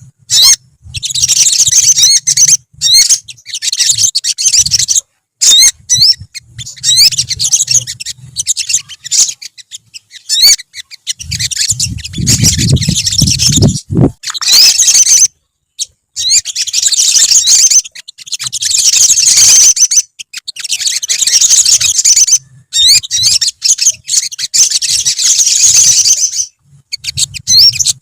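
Several olive-backed sunbirds singing together: rapid, high, thin twittering phrases in bursts with brief gaps between them. A low hum sits under some passages, and a short low rumble comes about halfway through.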